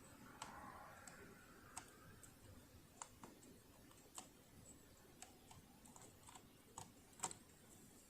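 Faint, scattered clicks and light taps, about a dozen at irregular intervals, from small parts and tools being handled while working on a sewing machine.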